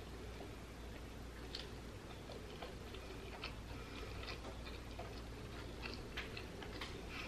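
A person chewing a mouthful of soft flour-tortilla taco, heard as faint, irregular wet mouth clicks over a low room hum.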